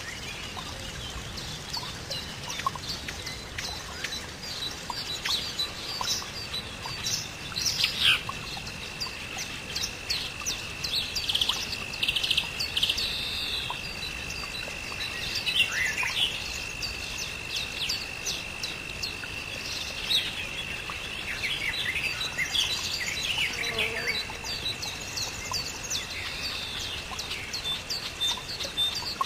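Several birds chirping and calling in quick, overlapping short notes and downward-sweeping calls, over one steady, unbroken high tone.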